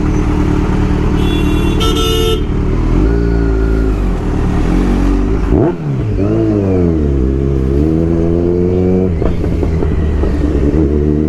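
Kawasaki Z900 inline-four engine running under way, its revs dipping about six seconds in and then rising and falling with the throttle. A brief horn sounds about a second in.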